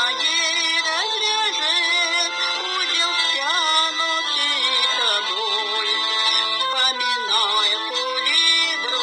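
A woman singing a Russian romance with vibrato over a recorded backing track.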